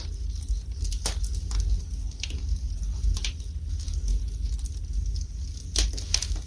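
Wood fire burning in a fireplace, crackling with a handful of sharp pops over a steady low rumble.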